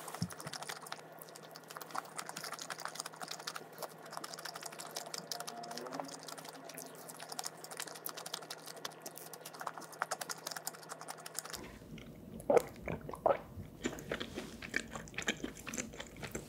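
Close-miked chewing of soft sausage bread with the mouth closed: a steady run of small wet clicks and smacks. About twelve seconds in come a few louder sounds of sipping through a straw from a small drink carton and swallowing.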